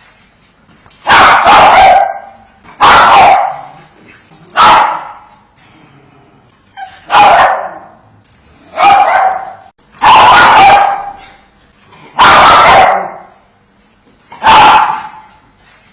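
A dog barking in loud single and double barks, about eight in all, spaced a second or two apart.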